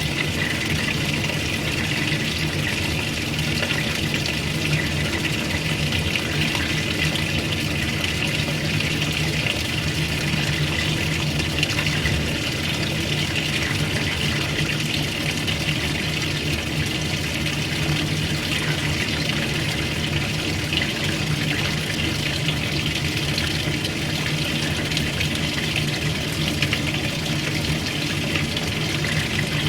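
Old-style washing machine with water running steadily into the tub, over a steady low hum.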